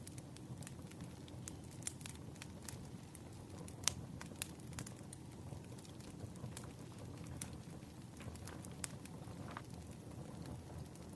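Wood fire crackling: a steady low rumble of burning logs with scattered sharp pops and snaps, the loudest about four seconds in.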